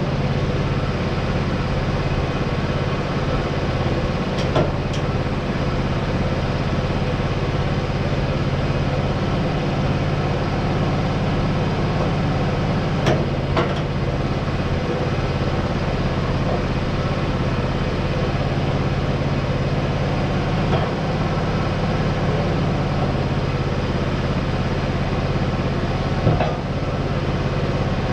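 An engine idling steadily, with a few short metallic knocks and clicks about a quarter of the way in, near the middle and near the end.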